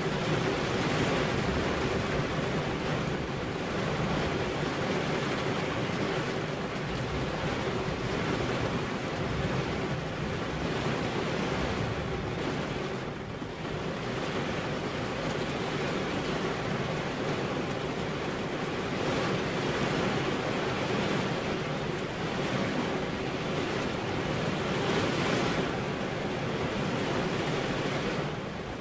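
Heavy rain pouring steadily onto window glass: a dense, even hiss that swells and eases gently and dips briefly near the middle.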